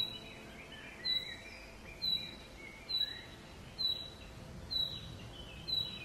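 Birds singing: a short, high chirp repeated about once a second, with fainter warbling and gliding calls behind it.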